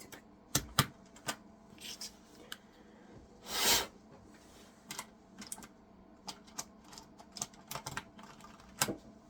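Computer keyboard keys clicking and clacking irregularly as they are handled and pressed, a dozen or so scattered clicks, with one louder short swish about three and a half seconds in.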